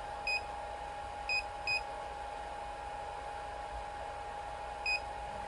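3D printer control panel giving four short, high-pitched beeps, two close together in the middle, over a steady hum.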